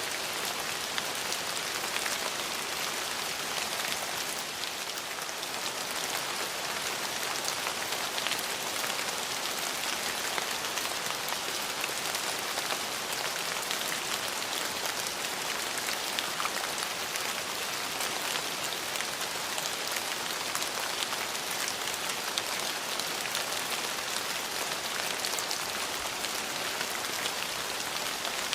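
Steady rain falling and pattering on surfaces, an even hiss dotted with fine drop ticks.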